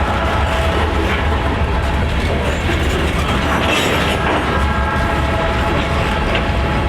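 Freight train rolling past, wheels clacking over the rail joints with a steady low rumble and a faint high squeal from the wheels.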